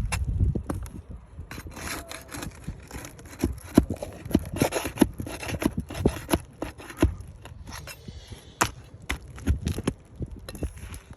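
Hand tools working on asphalt roof shingles: a run of irregular scrapes, clicks and knocks as nails are pried out and the shingles are lifted.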